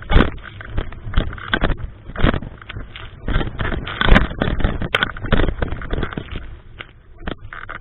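Typhoon-strength wind buffeting the microphone in loud, irregular gusts, with rumbling thumps one after another.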